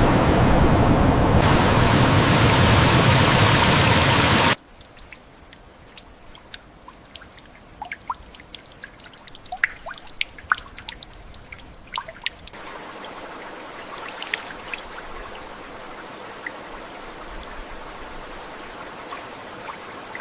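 Loud rushing water that cuts off suddenly a few seconds in. It gives way to water dripping and trickling, with many separate drops plinking, and a soft steady flow of water coming in about halfway through.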